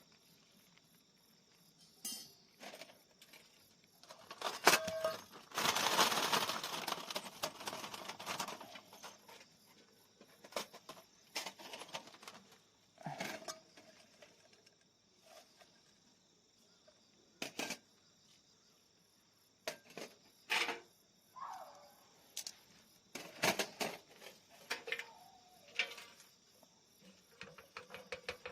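Wood fire crackling and popping in a small fire stand, with sharp irregular snaps and a louder rustling burst around six seconds in. Insects trill faintly and steadily underneath.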